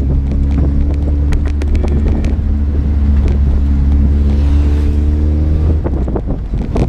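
Ford Verona's 1.8 AP inline four-cylinder engine running at a steady pace, heard from inside the cabin over a heavy low rumble of road and wind noise, with scattered light clicks. About six seconds in, the steady engine note breaks off and the sound drops.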